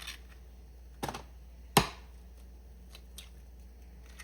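Eggs being cracked on the edge of a bowl: a few short, sharp knocks, the loudest just under two seconds in.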